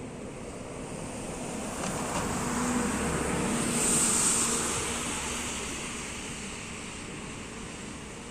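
A vehicle passing by on a wet road: tyre hiss swells, peaks about halfway through with the engine's hum underneath, then fades away.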